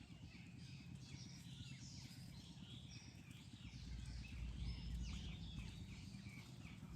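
Birds chirping repeatedly in short sliding notes over a low rumbling noise that grows louder about four seconds in.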